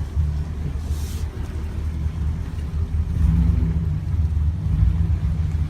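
Chevrolet Silverado pickup with a tuned engine and dual performance exhaust running with a deep exhaust rumble, getting a little louder about three seconds in.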